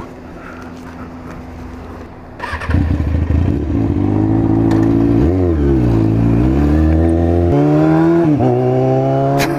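Kawasaki ZX-6R 636 sport bike's inline-four engine, quiet at first, then suddenly revving up loudly about two and a half seconds in as the bike accelerates. The revs dip and climb again several times as it pulls through the gears.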